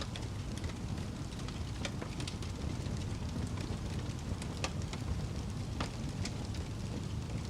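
Wood fire crackling: a steady low rumble of the flames with scattered sharp pops and snaps every second or so.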